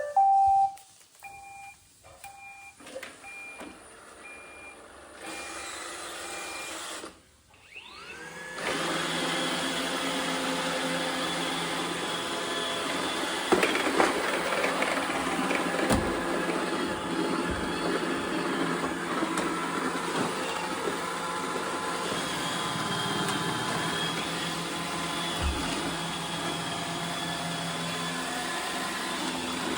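iRobot Roomba 850 robot vacuum: a run of short, high, evenly spaced beeps. Then, about eight seconds in, its motors spin up with a rising whine and it runs steadily, with a few low thumps along the way.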